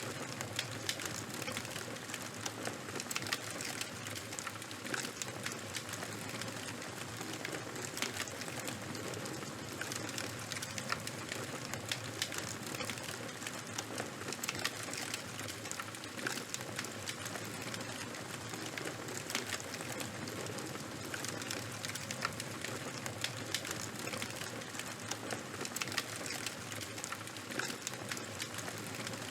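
Open fire burning: crackling, with many small sharp pops and snaps at irregular intervals over a steady hiss.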